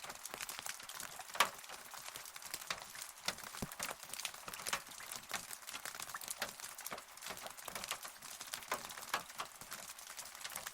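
Rain falling, with close, irregular drop ticks pattering over a steady hiss; one louder drop about a second and a half in.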